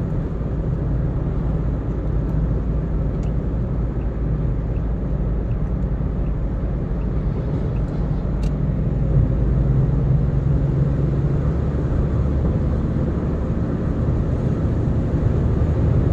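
Steady low rumble of a car's road and engine noise while cruising at speed, heard from inside the cabin.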